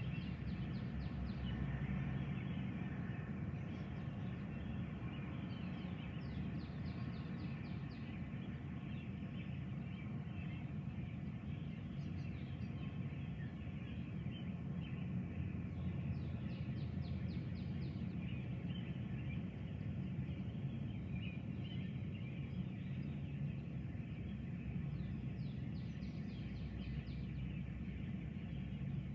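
Birds calling, with short rapid trilled calls about four times, over a steady low background rumble.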